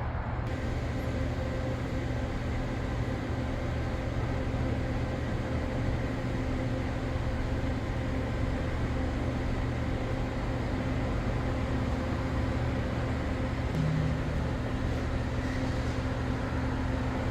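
Hyundai LF Sonata's engine idling steadily, a low even hum.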